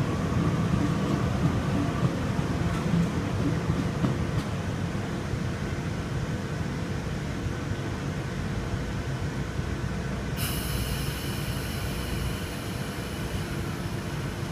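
Electric suburban train rumbling at a station platform, a steady low drone. About ten seconds in, a high steady whine made of several tones starts suddenly and holds.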